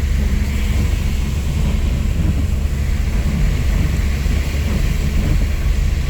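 Car cabin noise while driving in heavy rain: a steady low rumble of engine and road, with an even hiss from the rain and the wet road.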